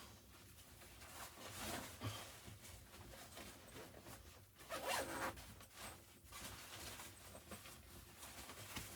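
Faint zipper being pulled in several short strokes, the loudest about five seconds in.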